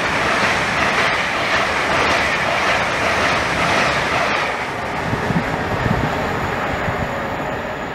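LNER Azuma high-speed passenger train passing through the station at speed: a loud, steady rush of wheels on rail and air, with some clickety-clack. The rush eases after about four seconds as the last carriages go by.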